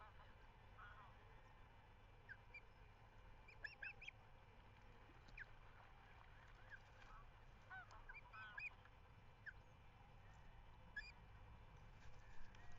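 Faint bird calls: short, arched notes in small scattered clusters, heard over a steady low background rumble.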